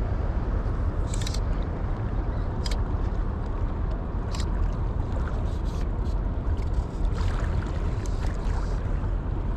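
Steady rush of river water, heaviest in the low end, with a few brief sharp clicks or splashes about one, three and four seconds in.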